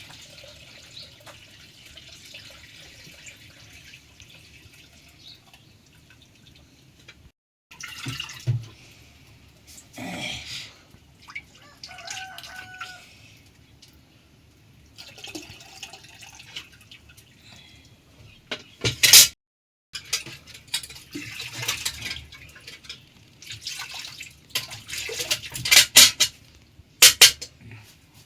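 Rain and dripping water, a steady hiss at first, then broken by scattered knocks and several loud sharp clicks in the last third.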